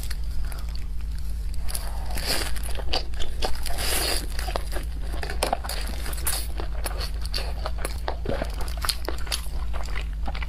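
Close-miked biting and chewing of pan-fried dumplings: irregular wet mouth clicks and smacks with crisp crackles, over a steady low hum.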